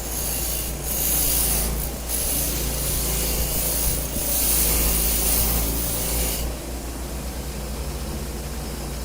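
A small motor hums steadily while a harsh, hissing rasp comes and goes: a power tool abrading the rusted metal of an oil lantern. The rasp is strongest for the first six seconds, with brief breaks about one and two seconds in, then eases.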